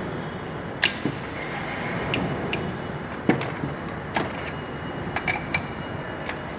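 Sharp metallic clicks and clinks of a timing chain being handled and repositioned on the engine's gears, about eight scattered ticks over a steady background noise.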